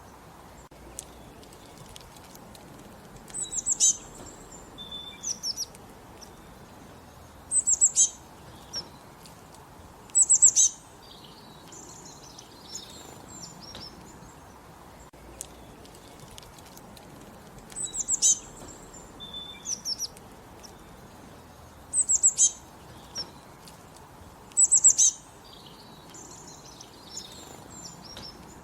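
Songbirds singing in short bursts of high chirping notes, a phrase every two to four seconds, over a steady faint background hiss.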